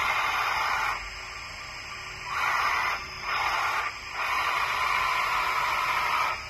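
Hydraulic pump of a LESU radio-controlled skid steer loader whirring with a hissing tone, cutting out and starting up again several times as the controls are worked.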